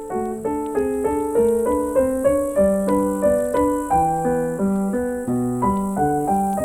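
Background piano music: a gentle melody of evenly paced notes, each struck and fading.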